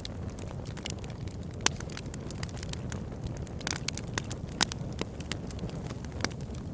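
Fire burning in a fireplace: a steady low rush of flames with frequent sharp crackles and pops, the two loudest about one and a half and four and a half seconds in.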